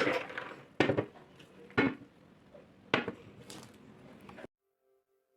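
Kitchen clatter: four or five sharp knocks and clinks of dishes or utensils, each with a short ring, about a second apart.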